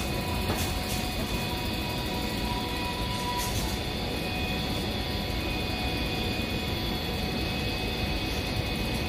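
MTR East Rail Line electric multiple-unit train running through the station without stopping: a steady rumble, with thin whining tones over it.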